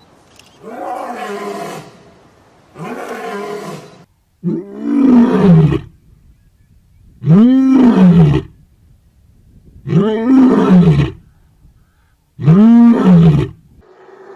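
An animal calling over and over: about six long, drawn-out calls, each rising and then falling in pitch. The first two are softer, and the later ones are loud.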